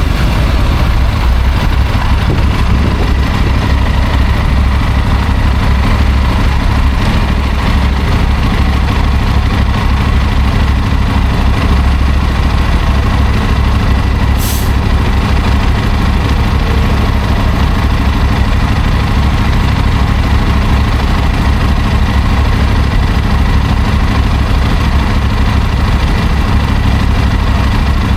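Motorcycle engine idling steadily, a low even rumble that does not rev. About halfway through there is a brief sharp hiss.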